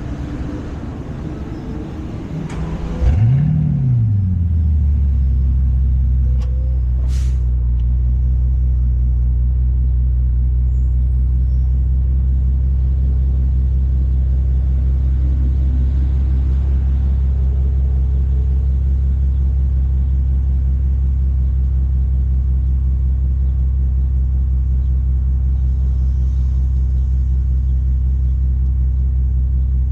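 2013 Bentley Speed's W12 engine cold-started: a short crank, then it catches about three seconds in with a quick rev flare that falls away and settles into a steady cold idle.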